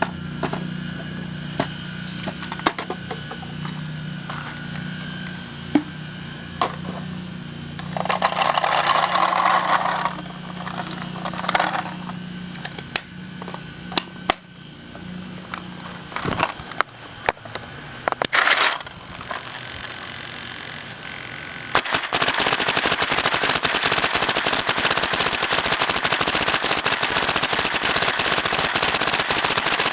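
Electronic paintball marker set to uncapped full-auto, firing a long rapid stream of shots from about 22 seconds in. Before that there are scattered clicks and handling noise, with two short bursts of noise.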